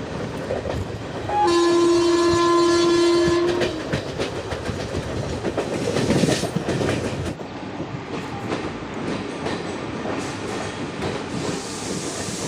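Locomotive horn sounding once for about two seconds, starting about a second and a half in. Underneath, the running coach rumbles and clicks over the track.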